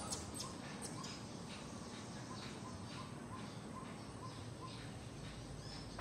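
Small birds chirping faintly: a run of short, evenly repeated chirps, about two or three a second, that stops about four seconds in.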